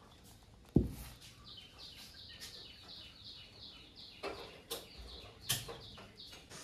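A single thump just under a second in, then a small bird chirping a quick, even run of short, high, falling notes, about three a second. After that come a few sharp knocks.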